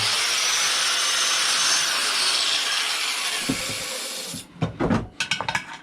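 Power cutting tool winding down after cutting through a screw: a loud high hiss with a falling whine that fades and stops about four seconds in, followed by several sharp metal clicks and knocks.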